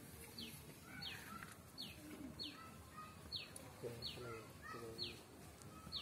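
A bird calling over and over, faint: a short high whistle that drops in pitch, repeated about every two-thirds of a second, with lower short notes in between.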